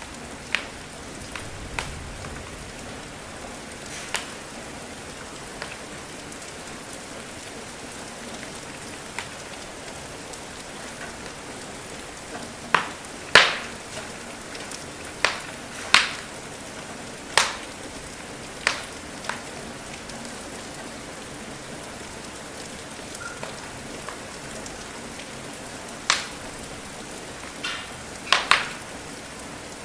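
Steady rain hiss with the irregular sharp pops and snaps of a crackling wood fire, a cluster of louder pops in the middle of the stretch.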